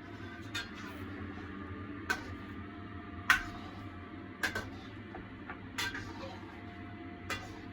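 A cooking utensil knocking and clacking against a wok while stirring a thickening sauce: about six sharp, irregular strikes, the loudest about three seconds in, over a steady low hum.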